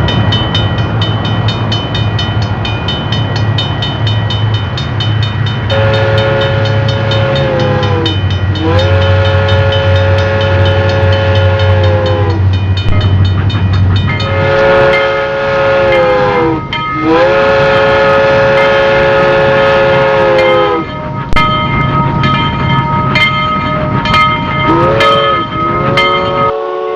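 Miniature train running with its sound system playing a low engine rumble and rapid wheel clicking, then several long horn blasts, one after another, with a short one near the end.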